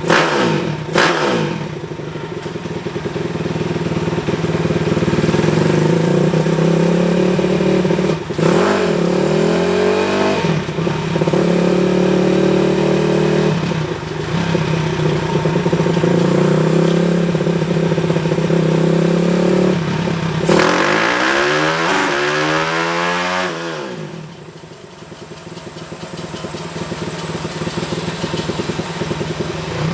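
Pit bike with a 225cc single-cylinder four-stroke Daytona 190-based engine running and revving, its pitch stepping up and down several times, with a sweeping pitch change a little past two-thirds of the way through before it drops back quieter.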